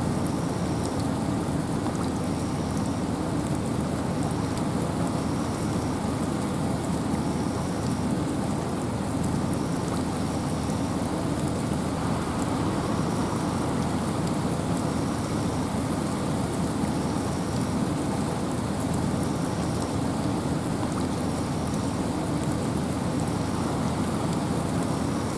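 Steady rain falling in a forest, with wind: an even, unbroken hiss over a low rumble, with no single drops or gusts standing out.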